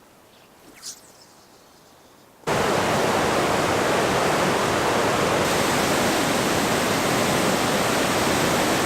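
A faint high chirp over quiet air, then a sudden switch about two and a half seconds in to a loud, steady rushing noise.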